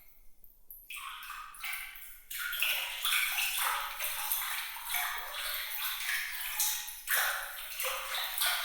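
Water trickling and splashing in quick, irregular bright plinks, with no low rumble under it. It nearly drops out for about the first second, then carries on steadily.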